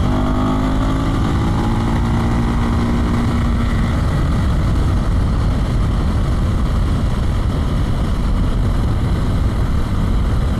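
Husqvarna Svartpilen 401's single-cylinder engine running under way, its note falling over the first four seconds as the bike slows. Heavy wind noise on the rider's microphone runs throughout.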